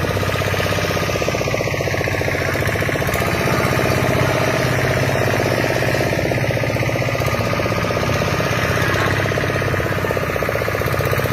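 An engine running steadily with a fast, even chugging pulse.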